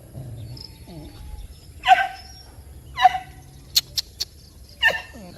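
Dogs at play giving three short, loud barks or yelps, about a second apart, the last one falling in pitch. Three quick sharp clicks come between the last two calls.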